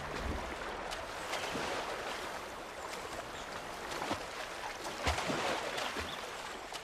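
River water rushing steadily, with a few faint knocks.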